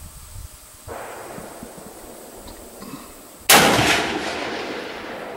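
A single .30-06 rifle shot from a Remington 700 ADL about three and a half seconds in: a sharp crack with a long echo dying away after it.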